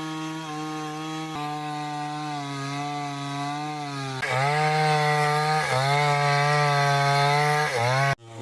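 Chainsaw running at high revs and cutting wood, its pitch dipping briefly each time the chain bites under load. It gets louder and harsher about four seconds in, then cuts off abruptly near the end.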